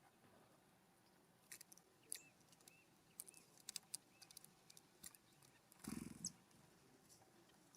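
Birds at a ground feeder: faint quick clicks and taps of pecking and seed handling, with a short run of soft, high, arched chirp notes. About six seconds in comes a brief, louder, harsher sound.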